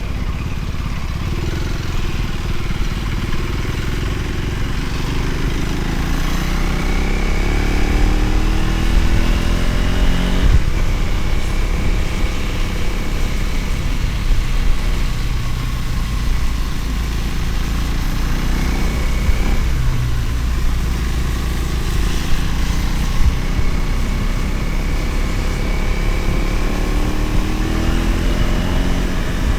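Motorcycle engine running while riding, over a heavy low rumble. Its pitch rises as it accelerates about a third of the way in, drops suddenly, and rises again near the end.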